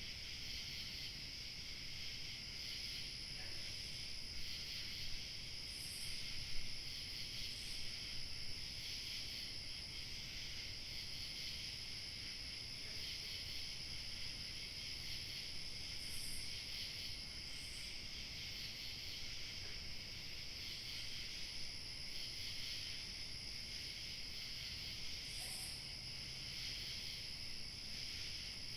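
Dense chorus of crickets chirping steadily, with a thinner high-pitched insect trill coming and going above it and light wind low underneath.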